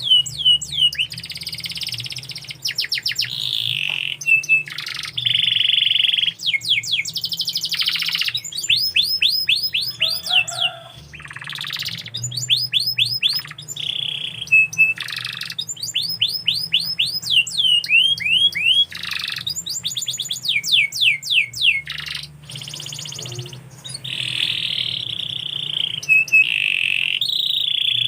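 Domestic canary singing a long, near-continuous song of rapid trills and quick repeated chirps, with a short break about ten seconds in.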